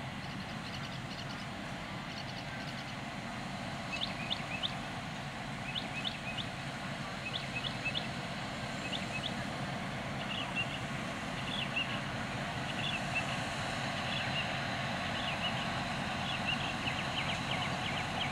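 Diesel-hauled excursion passenger train rolling slowly closer, a steady low rumble that grows gradually louder. From about four seconds in, clusters of short high squeaks are heard over it.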